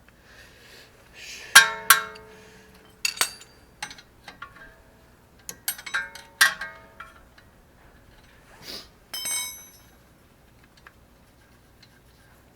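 Metal tools or parts clinking together, a handful of sharp ringing clinks spread out, the loudest about one and a half seconds in.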